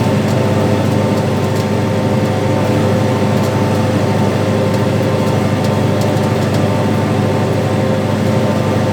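Farm tractor's diesel engine running steadily while pulling a soybean planter, an even drone with a constant pitch.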